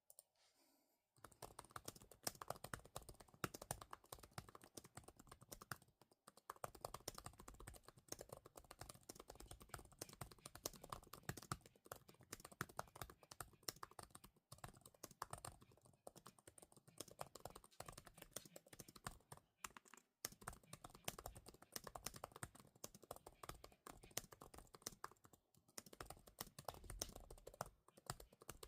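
Fast touch-typing on a computer keyboard, a dense stream of key clicks at a speed of about 426 strokes a minute. It starts about a second in and breaks off briefly every few seconds.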